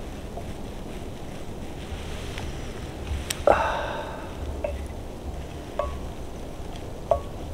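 Wind rumbling on the microphone, with a few short squeaky sounds about a second apart and one louder one near the middle.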